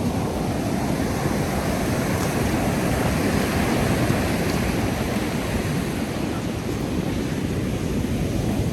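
Ocean surf breaking and washing up the sand, a steady rushing heaviest in the low end.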